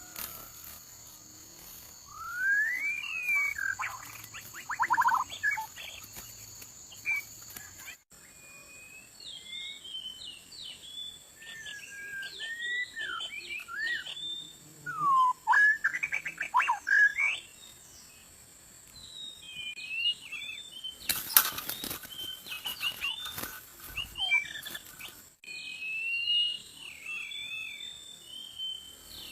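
White-rumped shama calling: a run of quick sliding whistles and chirps, with several sharp rustling clatters about three quarters of the way in.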